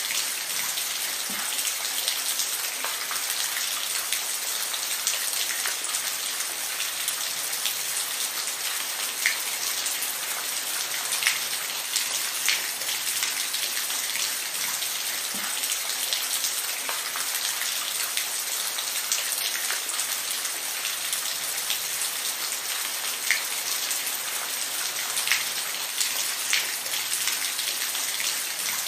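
Steady rainfall, a constant hiss with scattered louder individual drops ticking on a surface.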